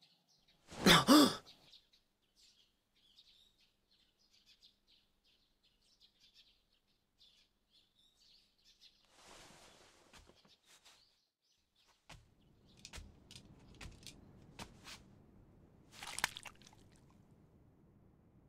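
Faint, scattered bird chirps, after a short loud burst about a second in. In the second half, a run of sharp clicks over a low hiss, with a louder burst near the end.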